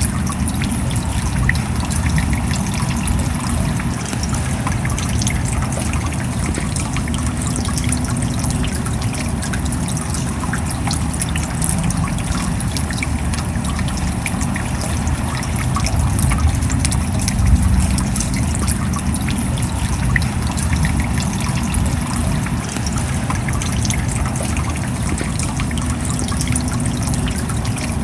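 Steady rain falling, with a dense scatter of small drop ticks over a low, even rumble.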